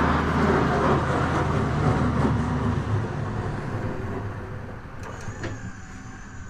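Pickup truck with a snowplow blade on it, working snow: a loud rushing scrape that fades over the first few seconds, over a steady low engine hum. A faint high whine starts about five seconds in.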